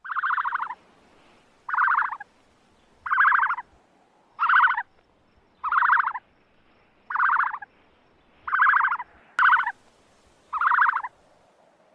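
An animal calling over and over: nine short, rapidly pulsed calls, mostly about a second and a half apart, with two coming close together near the end.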